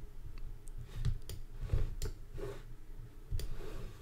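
Faint, irregular clicking of a computer mouse as a satellite map is dragged and zoomed, about a dozen short clicks, over a low steady hum.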